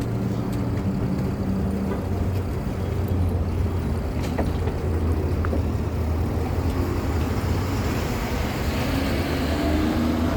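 A vehicle engine idling with a steady low hum. Near the end a second engine note rises in pitch, as if a vehicle is pulling away or speeding up.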